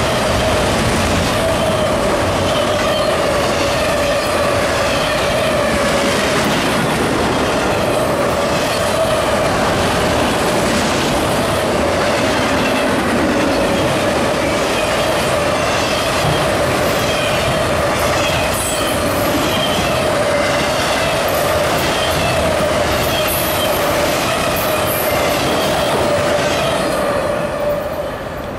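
CSX freight train Q235 rolling past: a steady high wheel squeal over the rumble and regular clicking of wheels on the rails. The sound drops away near the end as the train passes.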